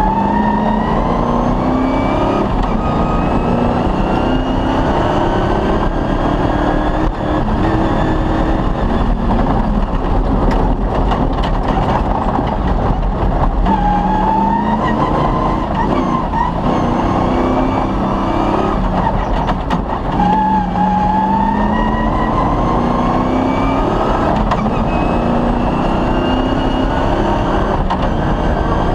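Cross-country rally car's engine running hard at speed, its pitch climbing slowly and steadily and dropping suddenly twice, about 13 and 20 seconds in, as it shifts gear. Knocks and rattles from the car come through over rough ground.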